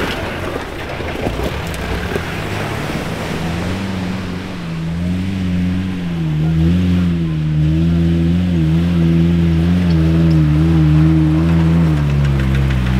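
An off-road vehicle's engine running, its pitch wavering up and down as the revs change. For about the first four seconds a broad rushing noise covers it, before the engine note comes through clearly.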